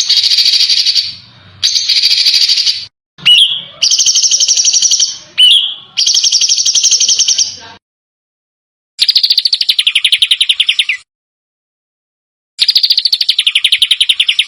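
Songbird masteran recording: harsh, rapid-fire trills, each phrase a fast string of buzzy repeated notes one to two seconds long, about six phrases with silent gaps between them. There are two short rising whistled notes in the first half.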